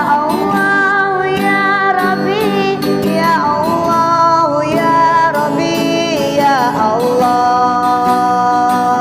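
A singer holding long, sliding sung notes over guitar accompaniment.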